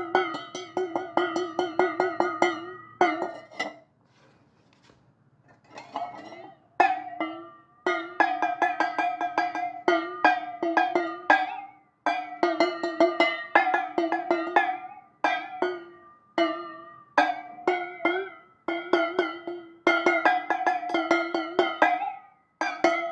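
Music of quick, rapidly repeated plucked-sounding notes, played in short phrases a second or two long with brief breaks between them, and a pause of about two seconds about four seconds in.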